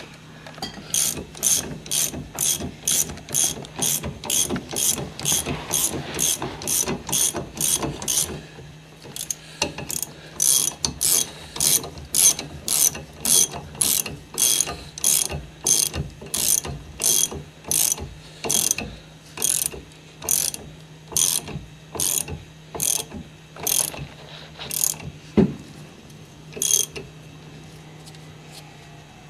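A ratchet wrench tightening bolts on a Mercedes 300D's front suspension, clicking in steady strokes of about two a second. It pauses briefly about eight seconds in and stops near the end.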